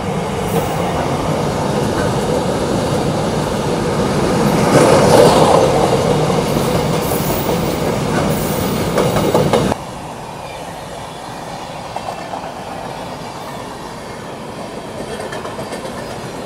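A train running past on the rails, its wheels clattering over the rail joints, loudest about five seconds in. A little under ten seconds in, the sound drops suddenly to a quieter, steady rail rumble.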